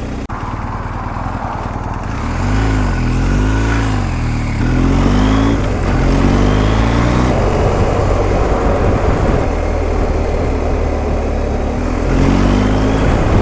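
BMW R1250GS Adventure's flat-twin boxer engine under way, its revs rising and dropping several times as the bike pulls through the gears, over a steady rush of wind noise.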